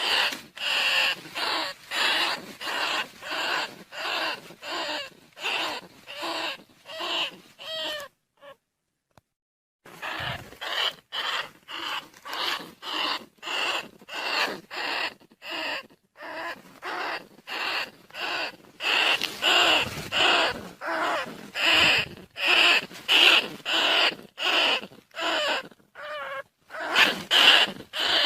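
Rat-call lure recording for field rats and bandicoot rats: short squealing calls repeated about twice a second, breaking off for about two seconds a third of the way in.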